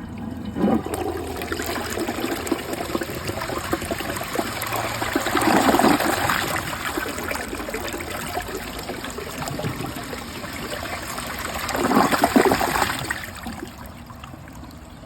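A 2005 Crane Athens toilet flushing: rushing water with a loud surge about six seconds in and another about twelve seconds in, then easing to a quieter trickle as it finishes.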